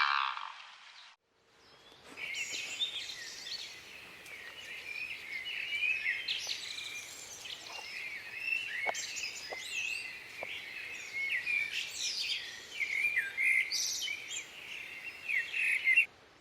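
A flock of small birds chirping and twittering, many short, quick, overlapping calls.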